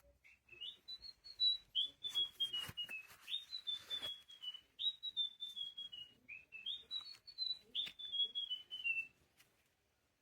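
Electronic birdsong from the Pets Alive Chirpy Birds owl toy: repeated phrases of short, high chirps, each phrase jumping up and then stepping down in pitch. It stops about a second before the end.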